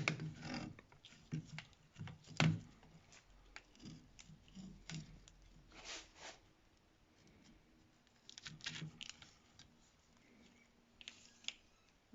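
Scattered small clicks, taps and scrapes of a brake pad being handled, cleaned and checked for flatness against a ruler.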